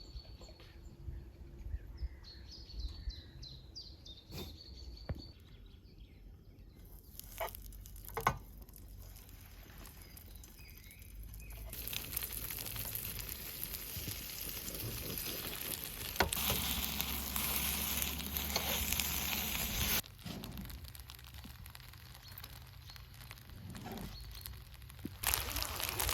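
Birds chirping during the first few seconds, then a steady hiss that builds from about seven seconds, is loudest between about twelve and twenty seconds, cuts off abruptly and comes back near the end.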